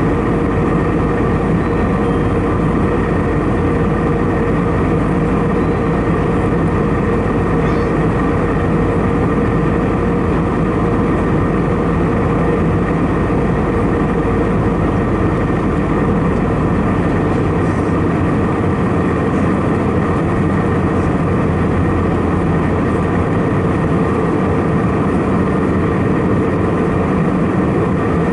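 Steady cabin drone of an Airbus A319-111 in flight: its CFM56 turbofan engines and the airflow over the fuselage, a constant rumble with a few steady tones on top. The deepest part of the rumble eases about two-thirds of the way through.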